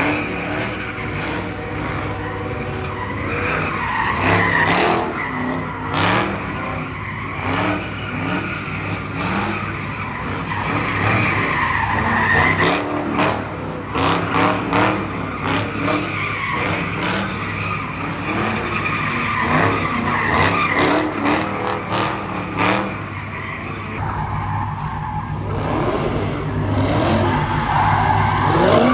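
Car tyres squealing and skidding over a steady engine drone, as a car spins its wheels at a car meet.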